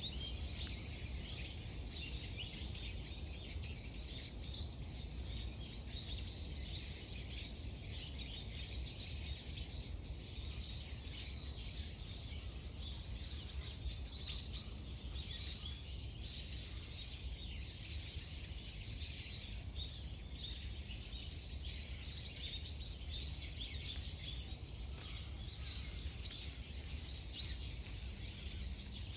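A dense chorus of small songbirds chirping and twittering, many short calls overlapping, over a steady low rumble.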